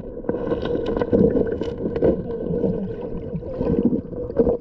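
Stream water sloshing and gurgling in irregular small splashes, picked up close by a camera in a waterproof case.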